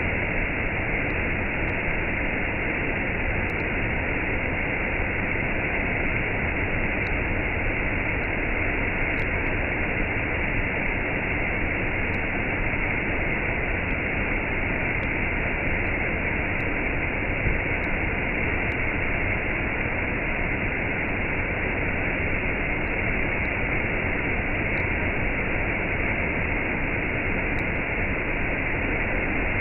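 Waterfall and cascade rushing in a steady, unbroken roar of falling water.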